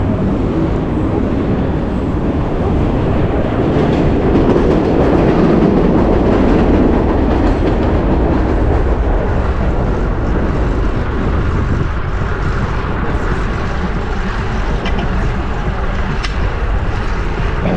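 Steady wind rush and road rumble on the microphone of a GoPro strapped to a rider on a moving fixed-gear bike, swelling louder for a few seconds around the middle.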